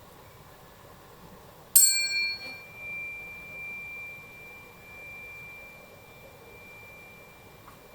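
A metal tuning fork struck once, about two seconds in, with a brief bright metallic clang. It then rings on as a single high, pure tone that slowly swells and fades.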